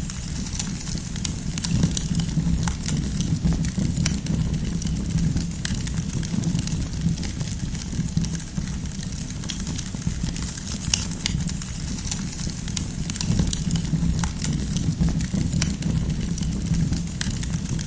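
Wood campfire burning: a steady low rumble of the flames with frequent small crackles and sharp pops from the burning firewood.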